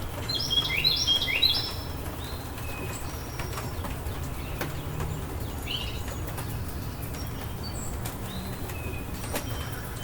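Birds chirping over a steady rainstorm background. A burst of quick repeated chirps in the first second and a half is the loudest part, followed by scattered faint calls and a few sharp ticks.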